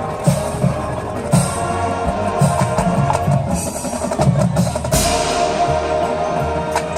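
High school marching band playing its field show: brass and winds hold sustained chords over a drumline and percussion. A heavy accented hit lands about five seconds in.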